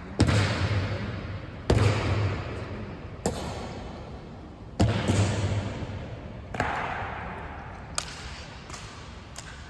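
Honor guard rifle drill: sharp claps and heavy thuds of rifles being handled, about one every second and a half, each followed by a long echo.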